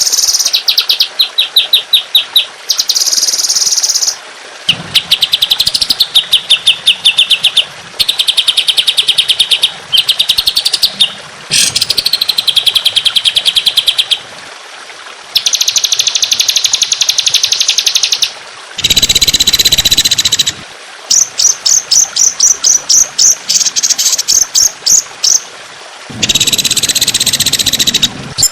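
Songbird masteran song: a bird singing very fast, machine-gun-like trills of repeated high notes. The phrases last a second or two each, with short gaps between them. Two harsher, buzzy rattling phrases come about two-thirds of the way in and near the end.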